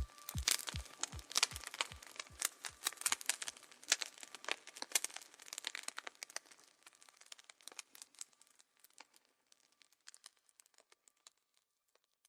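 Ending of an electronic music track: a kick drum beating about three times a second fades out within the first few seconds, leaving dense crackling that thins out to near silence toward the end, over a faint steady high tone.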